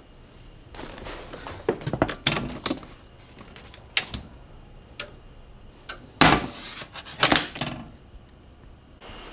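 A string of irregular knocks, clunks and rattles, the loudest a little past six and seven seconds in.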